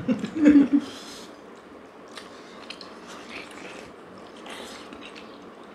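Close-miked eating: people biting into and chewing steamed chicken taipo dumplings dipped in soup, with small clicks and brief wet hissy bursts. A short voiced sound, a hum or murmur, comes in the first second and is the loudest thing.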